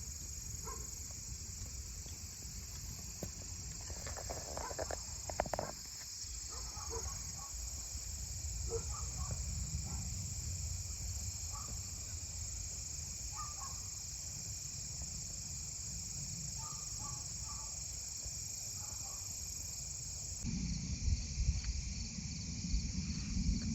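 Crickets and other field insects trilling steadily in a constant high-pitched chorus, over a low rumble, with a few scattered short chirps.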